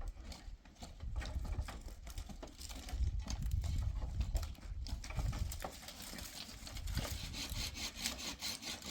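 Woodwork with a hand saw: irregular knocks and scrapes, settling near the end into regular saw strokes through wood, over a low rumble.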